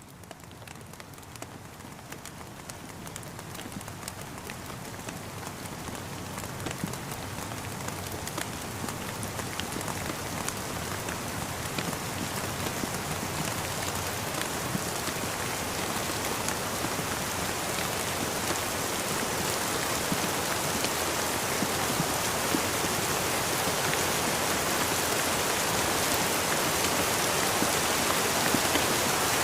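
Steady rain with fine, scattered drop taps, fading in and growing steadily louder throughout.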